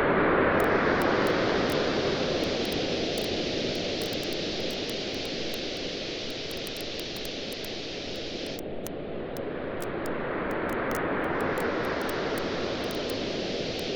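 Ocean waves washing on a beach, the surf swelling at the start, easing off midway and building again near the end, with a campfire crackling and popping throughout.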